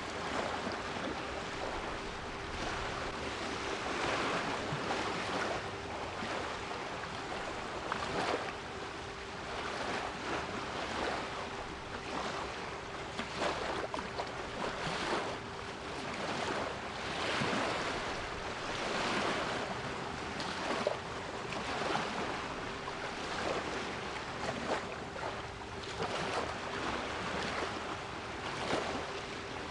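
Sea waves washing in, swelling and ebbing every second or two, with a steady 396 Hz pure tone held underneath.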